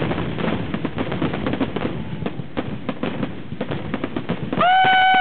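Aerial fireworks finale: a dense, rapid run of shell bursts and crackling reports. Near the end, a loud steady tone sounds for about half a second over the bursts and cuts off sharply.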